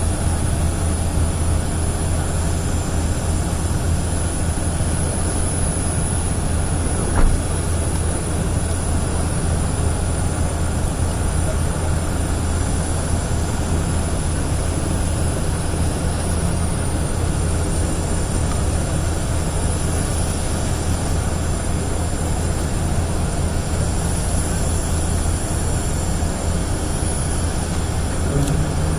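Steady low engine rumble that holds unchanged, with faint voices behind it and a single short knock about seven seconds in.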